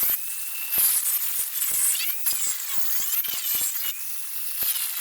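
Power grinder grinding fibreglass and wood, a high whine that sags and recovers in pitch several times as it bites under load, with many short ticks and clicks.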